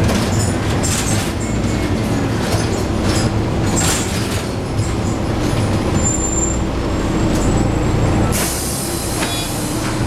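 Scania N113 bus's diesel engine running under way, heard from inside, with rattling from the body. About eight seconds in comes a loud burst of hissing compressed air lasting a second or two.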